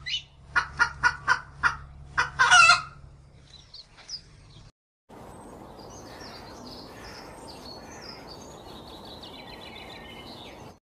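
A hen calling loudly in quick runs of short clucks, each run ending in a longer call, for about three seconds. After a brief break, faint high chirps and song of a European robin come over a steady hiss.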